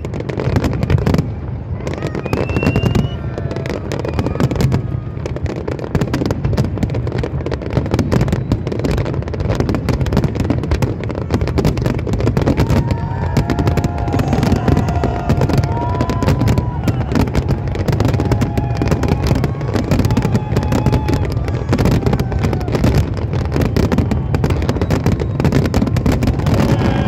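Fireworks display finale: a continuous, dense barrage of bangs and crackle building to its peak. People's voices call out over it in the second half.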